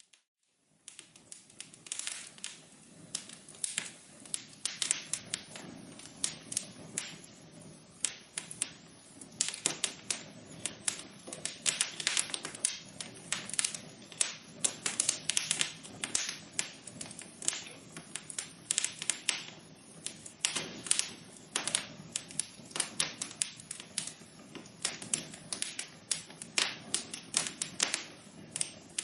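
Wood fire in a fireplace crackling: many irregular sharp pops and snaps over a soft hiss. The sound drops out for a moment at the very start.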